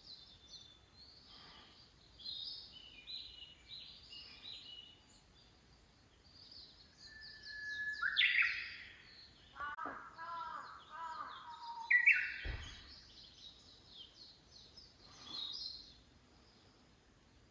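Several wild birds calling outdoors: many short high chirps throughout, with louder calls that fall in pitch about eight and twelve seconds in and a lower warbling call between them. A brief low bump comes just after the second loud call.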